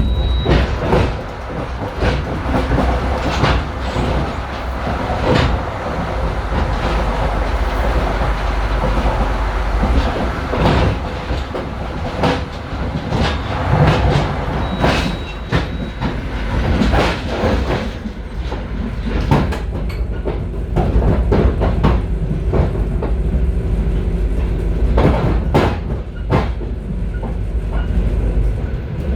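Moving passenger train heard from the vestibule of a car: steady rumble with irregular clattering knocks as the wheels run over rail joints and switches.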